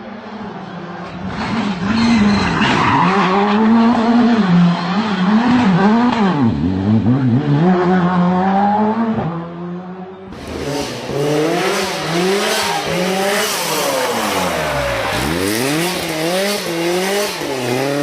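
Rally car engines at full throttle, revving hard through the gears. The pitch climbs, drops steeply when the car slows for corners, then climbs again, with some tyre noise. About ten seconds in, a second car with a brighter, noisier sound takes over.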